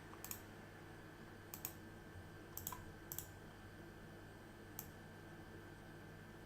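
About five sharp, scattered clicks of computer input at a desk, the last a little under five seconds in, over a faint steady electrical hum.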